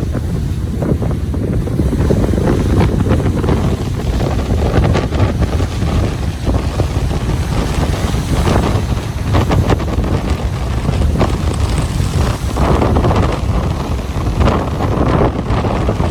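Ocean waves washing on a beach, with strong wind buffeting the microphone as a heavy low rumble and crackle.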